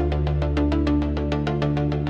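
Dark electronic techno track: a fast, even pulse of short synth notes, about eight a second, over a steady held bass.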